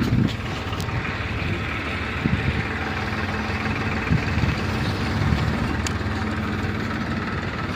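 A vehicle engine running steadily at a low, even speed, with a constant low hum under a wash of noise.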